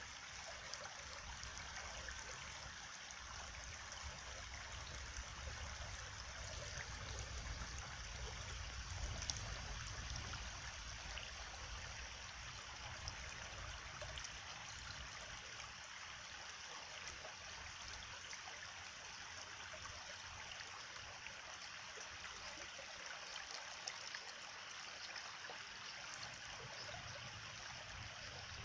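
A stream flowing steadily, water trickling and splashing over stones, with a low rumble that swells briefly partway through.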